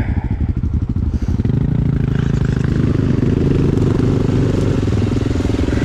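Dirt bike engine chugging at low revs with distinct firing pulses, then picking up to a steadier, smoother run about a second and a half in.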